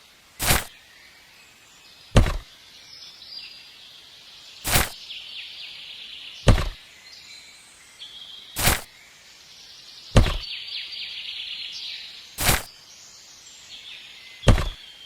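A series of sharp knocks, about eight, struck roughly every two seconds at a steady work pace, over steady high chirping in the background.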